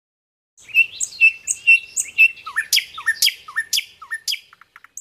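Bird chirps played as a sound effect: a run of quick chirps at about four a second, starting about half a second in. The later notes each drop sharply in pitch, and the run ends in a few faint rapid clicks.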